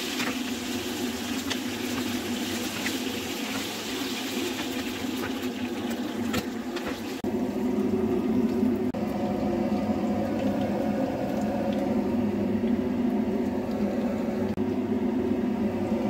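Chicken pieces sizzling in a grill pan, with a few light clicks from the spatula. About seven seconds in, the sizzle cuts off abruptly, leaving a steady low hum.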